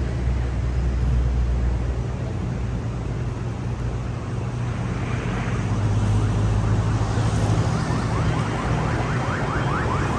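A motor vehicle running steadily, with a low engine hum and road noise. Near the end a quick run of short rising chirps begins.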